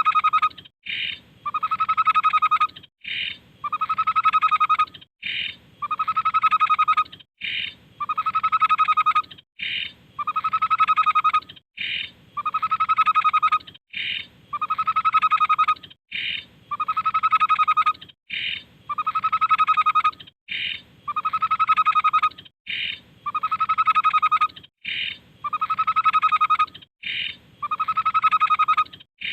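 Tepus babbler song repeated over and over: a short higher note followed by a longer, lower, pulsing note, about once every two seconds, every repeat alike as in a looped masteran recording.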